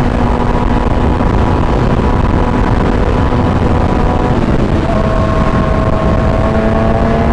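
Motorcycle engine running under way, with heavy road and wind noise. The engine's pitch holds steady, dips about five seconds in, then slowly climbs again.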